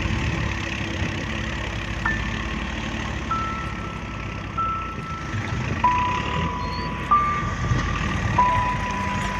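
A tractor's diesel engine running steadily, with a slow melody of single held notes over it that steps down in pitch about once a second.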